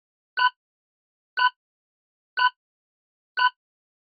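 Countdown timer sound effect: short, identical pitched ticks, one a second, four in all.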